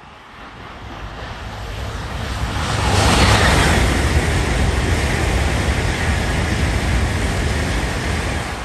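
A train passing at speed: rushing wheel and air noise builds up, is loudest about three seconds in and holds, then starts to fade near the end, with a faint steady high whine through the loudest part.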